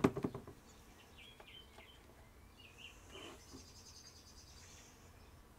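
A brief rattle of clicks at the start, then faint bird chirps and a short high trill in the background.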